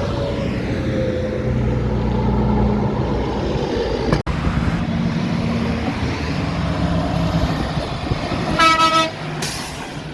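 Heavy diesel truck engine running loudly, with a short horn toot near the end followed by a brief hiss.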